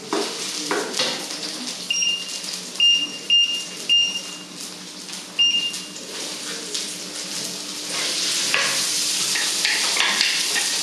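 Oil in a wok sizzling, swelling into a loud steady sizzle about eight seconds in as food is tipped into the hot pan, with a wooden spatula knocking and scraping against the wok. Five short electronic beeps sound in the first half.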